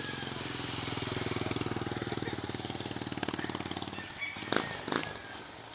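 Engine of a passing motor vehicle, likely a motorcycle, running with a fast even pulse that swells and then fades over about four seconds. Two sharp knocks follow about a second from the end.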